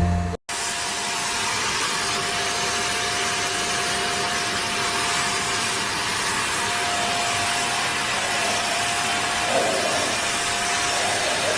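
Vacuum cleaner running: a steady rushing noise with a faint constant whine, starting after a brief dropout just under half a second in.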